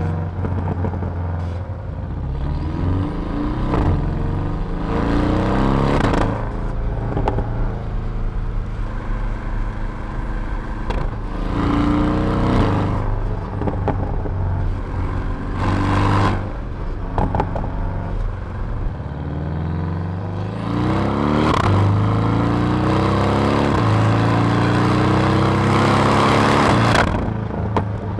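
Porsche 718 Cayman S turbocharged flat-four with sports exhaust, accelerating hard several times in succession. The engine note climbs in pitch through each gear and breaks off briefly at each shift, with the longest pull near the end.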